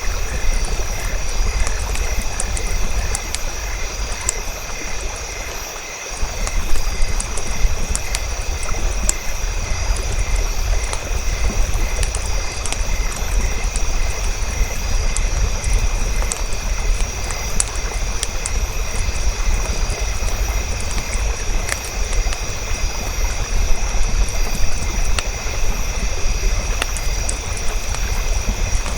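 Campfire ambience: scattered sharp crackles and pops from the fire over a steady low rumble, with a steady high drone of insects. The rumble dips briefly about six seconds in.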